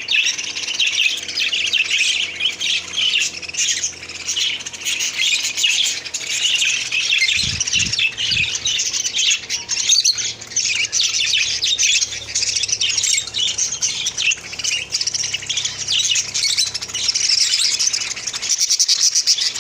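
A flock of caged pet birds (lovebirds, cockatiels, finches and budgerigars) chattering and squawking continuously, many high calls overlapping at once.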